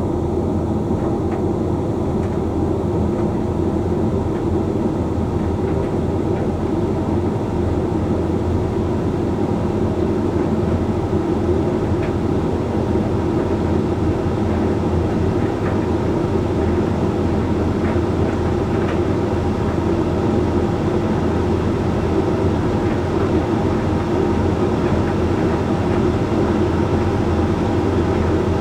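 Hoover Link X Care HLX C10DRGR condenser tumble dryer running steadily mid-cycle: motor hum and drum rumble with occasional faint ticks from the tumbling load.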